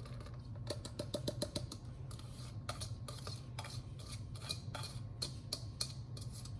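Irregular clicks and taps of a kitchen utensil against a dish as chopped red onion is added to a bowl of quinoa, with a quick run of taps about a second in.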